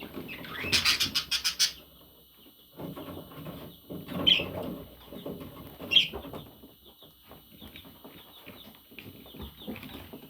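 Bird calls: a harsh burst of rapid squawks in the first two seconds, then single sharp high calls about four and six seconds in, over softer lower calls.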